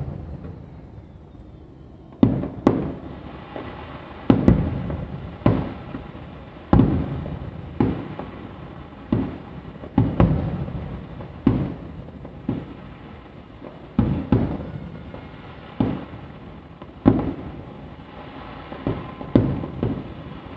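Aerial firework shells bursting, a sharp boom every second or so, each trailing off in an echoing rumble.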